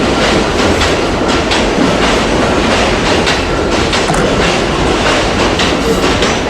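Long Island Rail Road electric passenger train running past close by: a loud, steady rush of wheels on rail with repeated clicks as the wheels cross rail joints.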